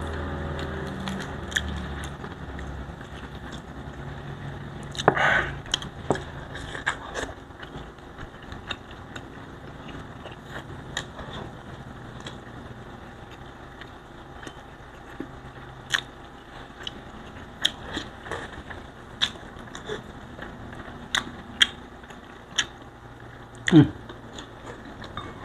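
Close-miked chewing and eating sounds of fried tilapia, rice and vegetables eaten by hand: irregular wet smacks and clicks of the mouth and fingers, with a louder mouth sound near the end.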